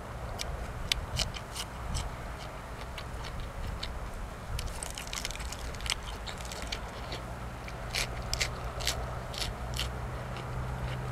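A person chewing and biting food close to the microphone, with many short, crisp crunches coming thick and fast in the middle.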